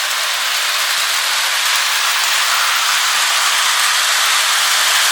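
Lionel O scale toy train, pulled by a 2-4-2 Atlantic steam locomotive, running around the track: a steady hiss of wheels and motor.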